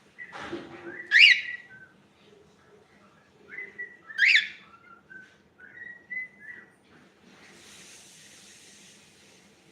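Cockatiel whistling: two loud, sharp whistles about three seconds apart, with softer short chirps between and after them.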